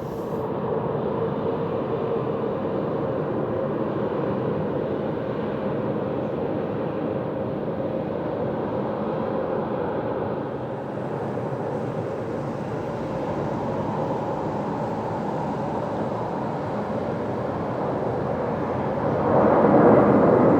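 Jet aircraft noise on an airport apron: a steady rush with a constant whine running through it, swelling louder near the end.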